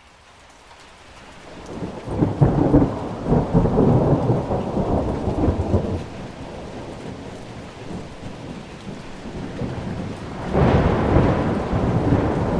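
Thunderstorm: rain hissing steadily, fading in from quiet at the start. Thunder rolls in about two seconds in and rumbles for several seconds, and a second peal breaks near the end.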